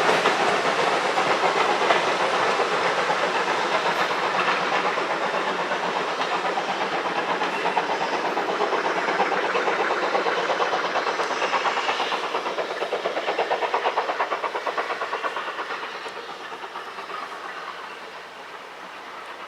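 A train running on a heritage line, its wheels clattering over the rail joints in a quick, even rhythm, fading steadily as it draws away.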